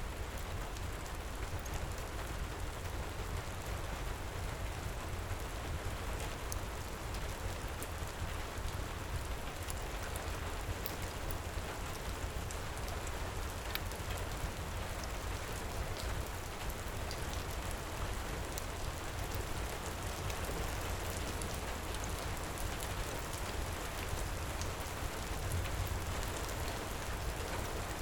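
Heavy rain pouring steadily with a deep low rumble underneath, and a fireplace crackling now and then with faint sharp snaps.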